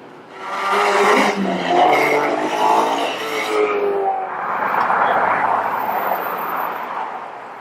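A car engine revving hard as the car pulls away, its pitch climbing and dropping through the first few seconds. A rougher, noisier exhaust sound follows and gradually fades.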